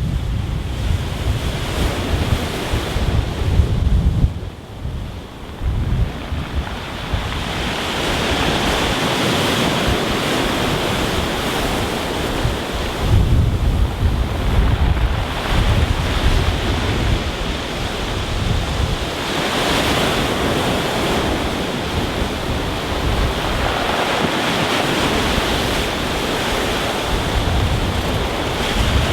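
Rough sea breaking on a stony beach, waves surging and washing back over the stones in a continuous hiss. Wind buffets the microphone in low rumbling gusts, strongest in the first few seconds and again about halfway through.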